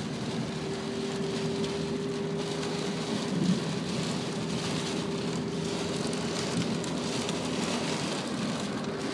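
Heavy rain falling on a moving car, heard from inside the cabin, over steady road noise and a steady hum.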